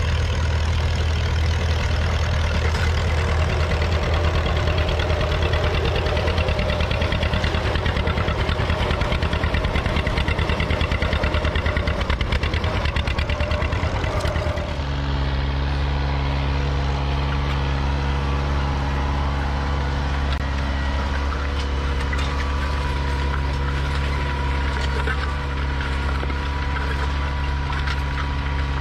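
Tractor engine running steadily. About halfway through, the engine note changes abruptly to a different steady note.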